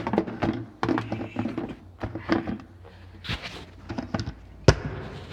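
Handling noise from a phone on a small tripod being picked up, carried and set down: a string of knocks and clicks against the microphone, with one sharp, loud thump near the end.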